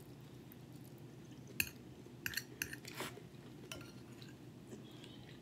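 Close-miked chewing of a mouthful of omelette, with a handful of short, sharp clicks between about one and a half and four seconds in.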